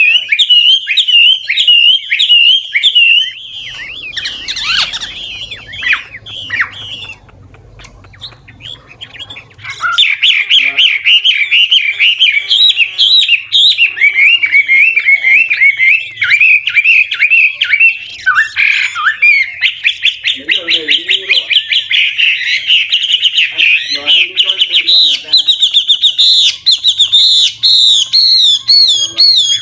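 Mature wild-caught Chinese hwamei (melodious laughingthrush) singing a fast, varied song of rapidly repeated slurred whistled phrases, switching phrase types continually. It sings briefly, goes quieter for a few seconds about four seconds in, then resumes about ten seconds in and sings almost without pause.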